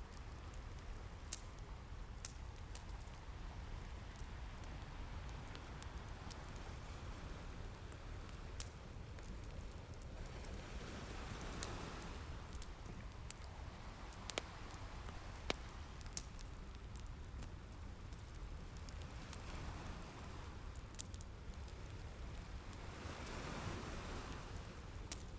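Crackling fireplace with sharp pops every few seconds, over a low steady wash of ocean waves. The surf swells in and fades twice.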